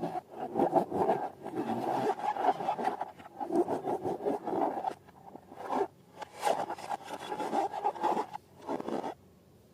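Balloons and slime being handled and worked, giving irregular rubbery scraping and rubbing sounds in bursts that stop about nine seconds in.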